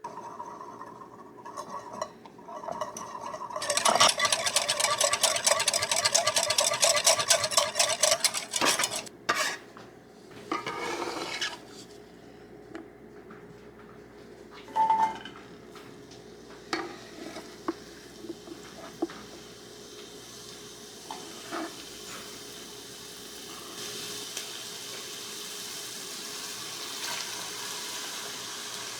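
Kitchen utensils clattering against a bowl and pan: a fast run of stirring strokes for several seconds, then scattered single clinks. Food starts sizzling in a hot pan and builds toward the end.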